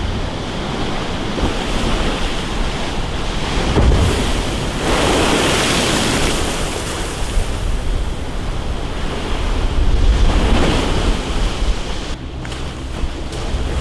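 Rough sea in a storm: waves surging and breaking, with strong wind buffeting the microphone. The wash swells louder twice, about five and ten seconds in.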